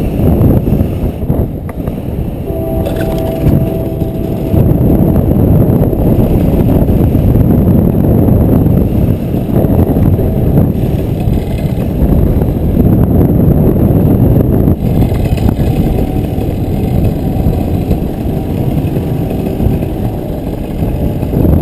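Loud wind buffeting the microphone during engine-off gliding flight under a paraglider wing, a steady low rumble with no engine running.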